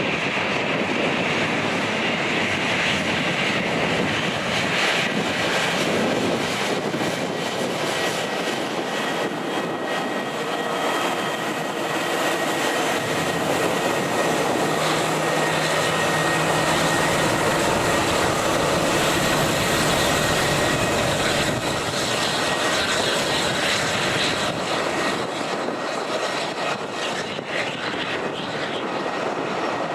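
Jet airliner engines running steadily, with a few faint steady whine tones over the engine noise, mixed with wind noise buffeting the microphone.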